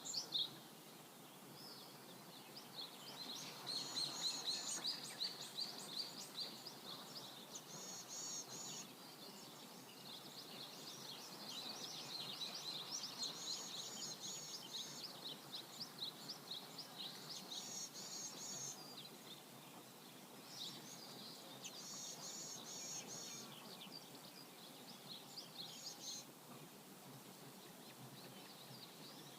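Songbirds chirping in repeated runs of quick high notes over a faint steady rush of flowing river water; the chirping thins out near the end.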